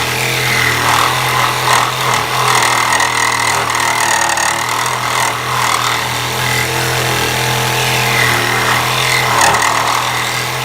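Power tool running steadily as it cuts through an original door hinge pin on a 2003 Chevrolet Silverado, a continuous rasping cut over a steady motor hum.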